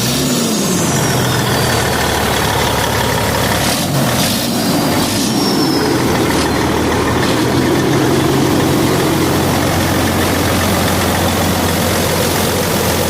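Caterpillar C15 inline-six diesel truck engine catching just after cranking and then idling steadily.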